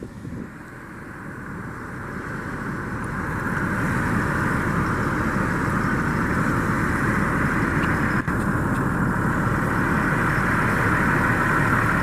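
Vehicle engine growing louder over the first few seconds, then running steadily close by.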